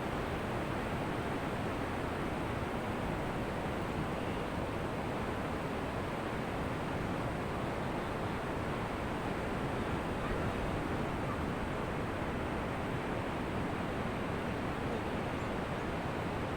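Ocean surf washing on a beach: a steady, even rush of waves with no single crash standing out.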